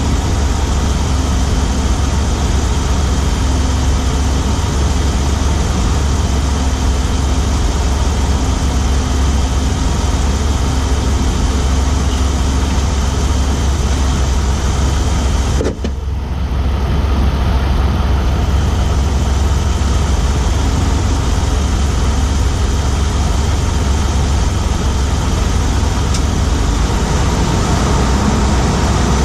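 2017 RAM 1500's Hemi V8 running while driving, heard from inside the engine compartment on the driver's side: a loud, steady engine and road din with a ticking that the owner wonders is the typical Hemi tick or something else. A single click about halfway through, followed by a brief dip in the higher sounds.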